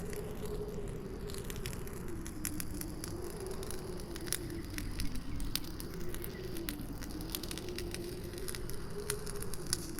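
Campfire crackling, with sharp pops scattered all through, over a howling wind whose low whistle slowly rises and falls above a steady low rumble.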